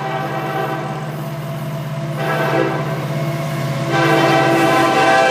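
Florida East Coast Railway train's diesel locomotives running, with the locomotive air horn sounding: a first blast about two seconds in, then a longer, louder blast from about four seconds in.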